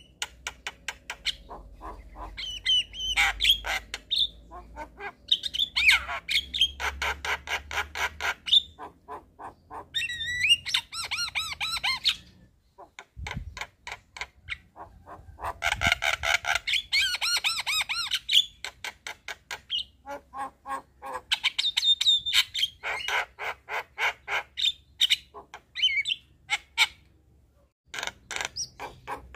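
Javan myna giving harsh, rapid chattering calls and squawks in fast runs of notes, breaking off twice briefly between bouts.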